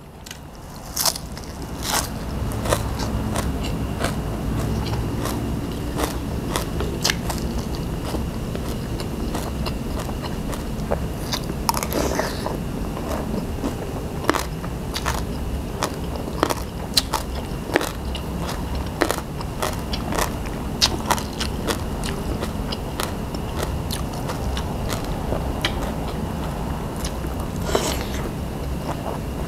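Close-up chewing with frequent sharp crunches, from a mouthful of spicy pounded salad with crispy squid and fresh coriander leaves.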